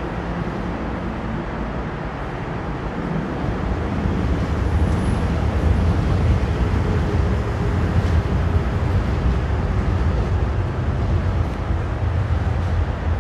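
Docklands Light Railway train running past on the elevated track, a low rumble that builds from about four seconds in and stays up, over steady road-traffic noise.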